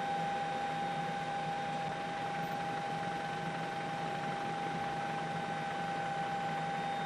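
A steady, unchanging hum and hiss with a constant high whine, with no speech.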